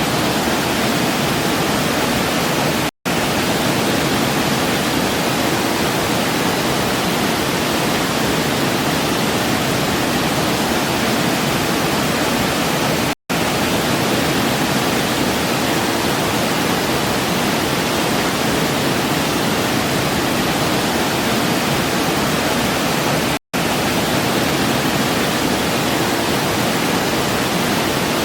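Waterfall rushing steadily. It drops out to silence for an instant three times, about ten seconds apart.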